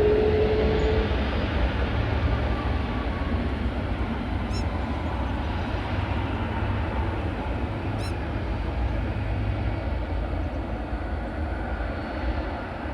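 Jet airliner engines roaring as the aircraft passes, easing off slowly. A thin whine rises a little in pitch and stops about a second in.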